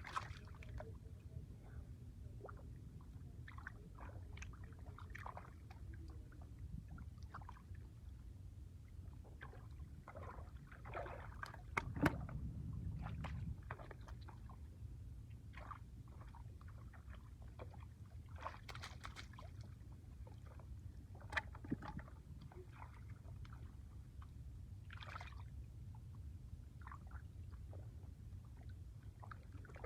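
Shallow water splashing and sloshing in short, irregular bursts over a low steady rumble, with a louder splash about twelve seconds in.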